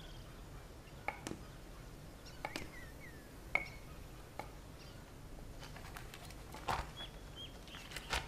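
Faint, sparse bird chirps, short high calls a few seconds apart, over quiet room tone with a few light clicks and knocks.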